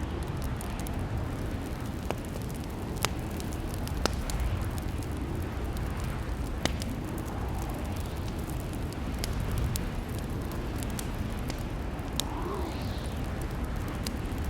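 Wood fire crackling in a fireplace: a steady low rumble of flames with scattered sharp pops and snaps, a few louder ones.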